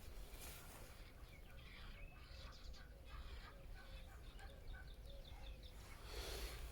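Faint birds chirping in short, scattered calls.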